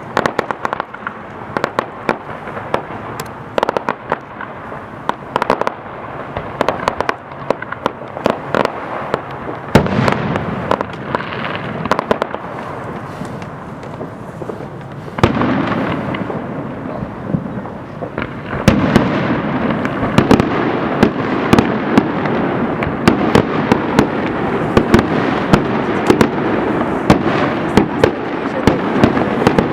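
Many fireworks going off in quick succession: sharp bangs over a continuous crackling rumble of overlapping explosions. The barrage grows denser and louder about ten, fifteen and nineteen seconds in.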